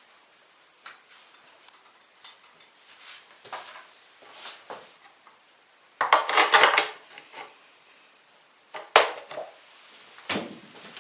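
Pots, dishes and utensils being handled: scattered light clinks, a burst of clattering about six seconds in, and sharp knocks near the end.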